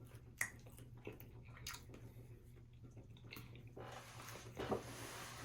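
A person chewing food, with a few soft, wet mouth clicks and smacks scattered through the quiet.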